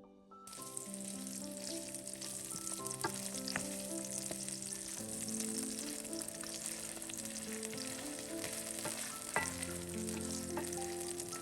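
Food frying in a pan: a steady sizzle that starts abruptly about half a second in, with a few sharp clicks. Soft piano music plays underneath.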